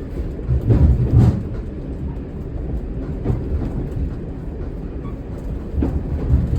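Single-car diesel railcar running at about 15 mph, a steady low rumble from inside the cab, with louder bumps about a second in and again near the end.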